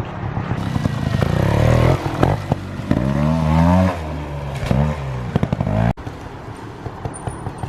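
Small motorcycle engine revving up and down as the bike is ridden, with scattered clattering knocks. The sound drops abruptly to a quieter background about six seconds in.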